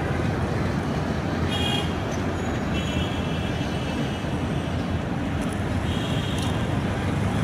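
Steady low rumble of engines and traffic, with a few short high-pitched toots, about a second and a half, three and six seconds in.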